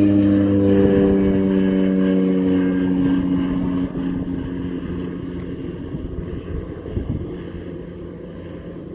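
Cessna 208B Super Cargomaster's single turboprop engine and propeller droning as the plane climbs away after takeoff. The tone sinks slowly in pitch and the sound fades steadily, with a brief low thump of wind on the microphone about seven seconds in.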